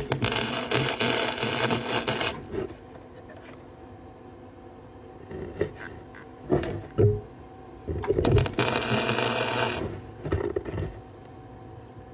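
Electric arc welding: two crackling weld runs, the first about two seconds long at the start and the second about a second and a half long past the middle, with a few short knocks of metal being handled between them.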